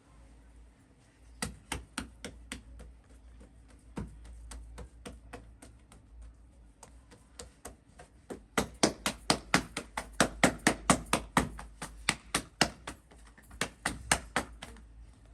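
A series of sharp knocks or taps: a few spaced ones, then a fast run of about five a second for roughly four seconds, then a few more near the end.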